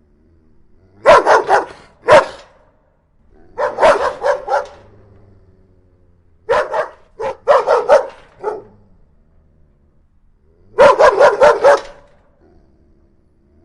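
Dog barking aggressively in four rapid volleys of several barks each, with a low growl running between the volleys.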